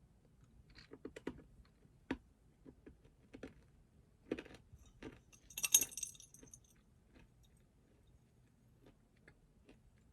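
Quiet desk sounds: scattered light taps and clicks of objects being handled, and a little past halfway a brief metallic jingle, the loudest sound.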